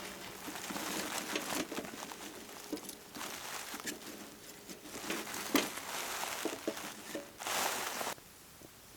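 Crinkling and rustling handling noises with scattered clicks and knocks; about seven and a half seconds in, a louder rush of rustling noise lasts under a second and cuts off suddenly.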